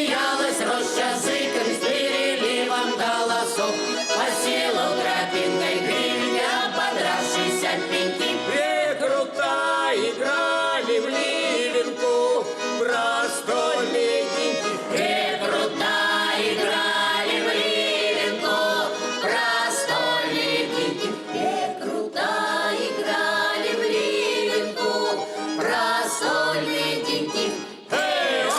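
Russian folk song performed by an ensemble: an accordion playing with voices singing along, steady throughout, with a brief drop in level near the end.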